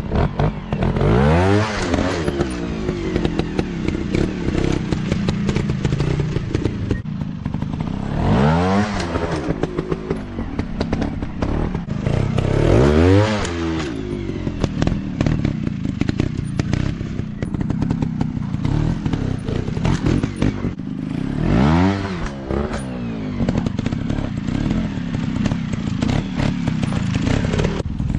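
Off-road dirt bike engines running, with four surges where an engine revs up and back down, over a steady clatter of knocks.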